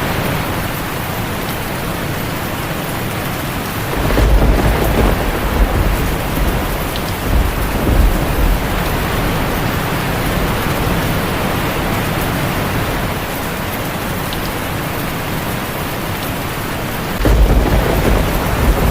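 Heavy rain falling steadily on a tin roof, with deep thunder rumbling in twice: a long roll about four seconds in, lasting several seconds, and another near the end.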